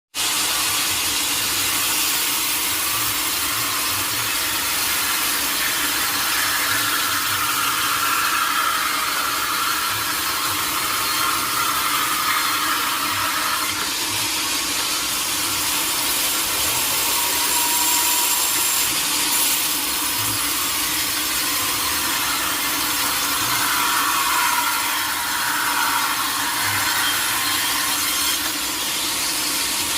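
Sawmill saw cutting teak wood: a steady, continuous sawing noise over a low hum, with a whine that wavers in pitch and comes and goes.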